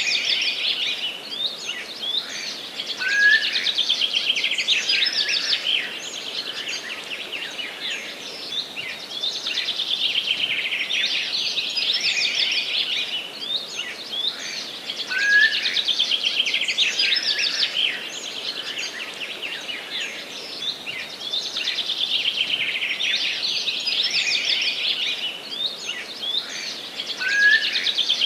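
Dense chorus of many small songbirds chirping and trilling together, with a short rising call standing out. The same passage repeats about every twelve seconds, as a looped recording does.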